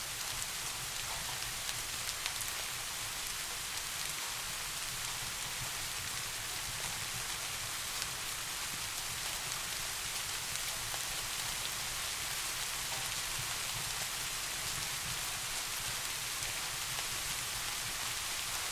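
Steady rain falling: a dense, even hiss with scattered drop ticks and a low steady rumble underneath.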